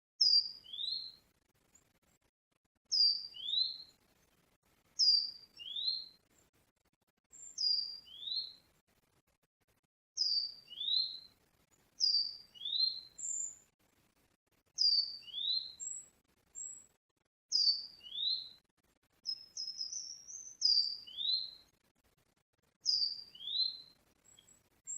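A small songbird repeating a short two-note call about every two seconds: a high falling note followed at once by a rising lower one.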